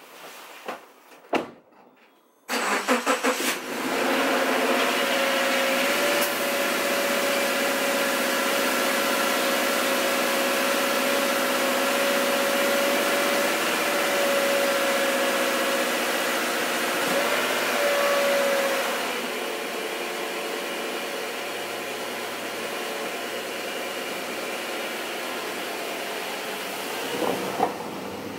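Subaru's engine cranks and starts about two and a half seconds in, then runs loud and steady with a constant whine, easing off about two-thirds of the way through as the car pushes out into deep snow.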